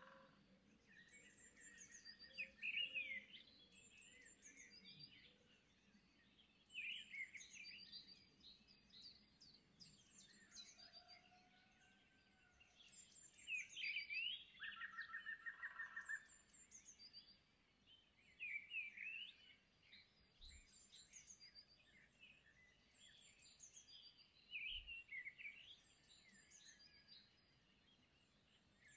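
Faint birdsong: small birds chirping in repeated short high calls, with a couple of brief trills.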